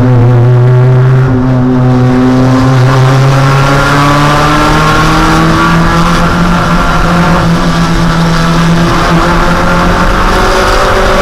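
Mazda Miata 1.6-litre four-cylinder race engine running hard, its pitch climbing steadily as the car accelerates, with a brief drop in pitch about a second in, like a gear change.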